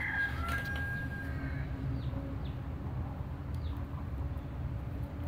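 Birds calling faintly: a thin held whistle in the first second or so, then a few short high chirps, over a steady low rumble.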